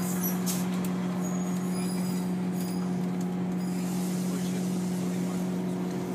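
Diesel train idling at the station platform: a steady, unchanging engine hum, with a few faint clicks about half a second in.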